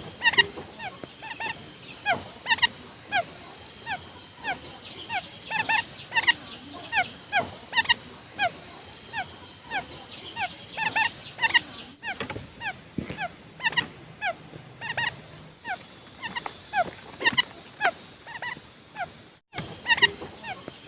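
Quail lure call: a rapid string of short, downward-slurred notes, several overlapping, over a steady high hiss. There is a brief drop-out just before the end.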